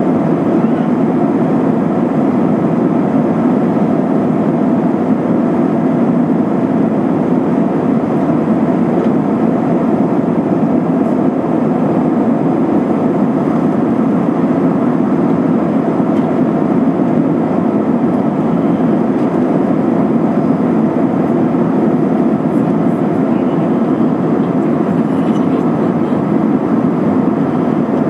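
Steady cabin noise of an Airbus A320-232 in flight: an even, unchanging rush of airflow and IAE V2500 turbofan engines heard from inside the passenger cabin.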